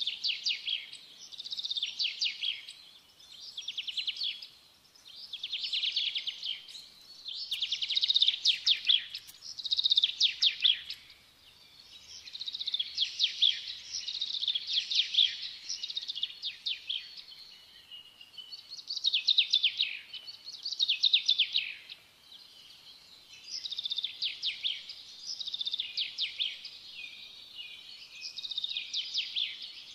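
A songbird singing: high trilled phrases, one every second or two.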